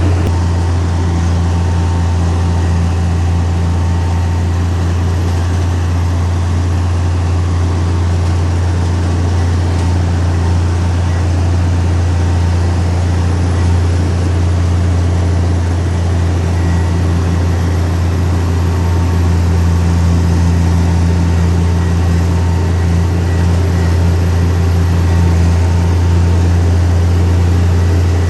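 Heavy diesel engine of earthmoving machinery running steadily at an unchanging speed, with a deep constant hum.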